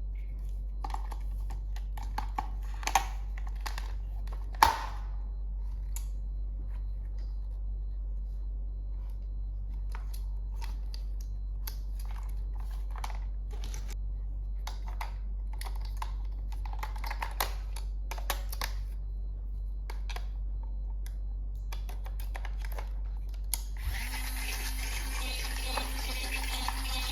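Small hard clicks, taps and knocks of plastic toy parts being handled and fitted together, with two louder knocks early on. Near the end a steady whirring hiss starts and keeps going.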